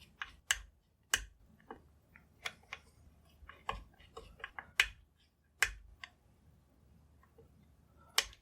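Sharp, irregular clicks and taps of a hand screwdriver and small steel parts as the rear sling swivel is screwed onto a wooden rifle stock blank. The loudest taps come about half a second in, just past a second, near five and a half seconds, and near the end.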